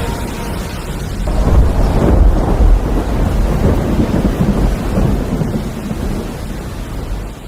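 Loud, low rumbling noise, swelling about a second and a half in and easing off near the end.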